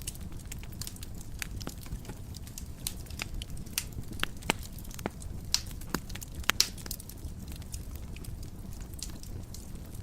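Wood fire in a fireplace crackling: a steady low rumble of the flames with irregular sharp snaps and pops, a few louder pops in the middle of the stretch.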